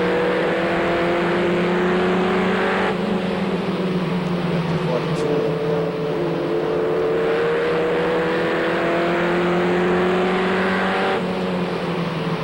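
Racing truck engines running hard. The main engine note climbs steadily in pitch, then falls off abruptly about three seconds in and again near the end.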